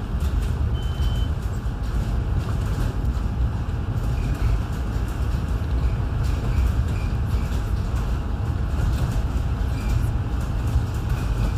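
Steady low rumble of a train running along the rails, heard from inside a passenger coach.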